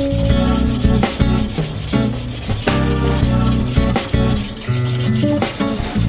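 A nakiri knife blade being rubbed back and forth on a whetstone, a steady rasping grind, mixed with background music. The grinding is flattening and reshaping a warped, concave blade face and a bent edge line.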